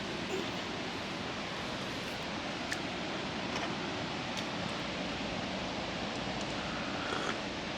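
Steady rushing outdoor background noise, with a few faint clicks.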